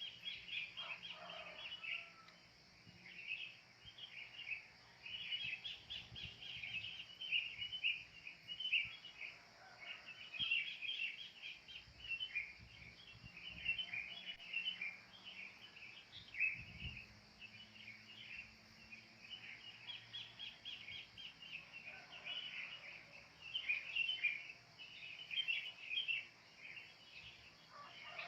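Wild birds calling continuously in overlapping bursts of rapid chirping and chattering, over a steady high insect hiss.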